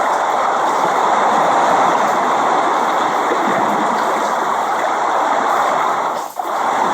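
Steady, dense rain noise, a continuous even hiss with no let-up, broken only by a brief dropout a little after six seconds in.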